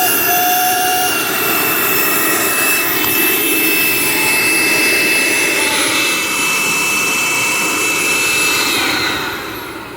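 2006 Dirt Devil Ultra Vision Turbo upright vacuum cleaner running with a steady high whistle over the motor noise, a noise its owner puts down to the machine being partly taken apart. Near the end the motor winds down, its pitch falling.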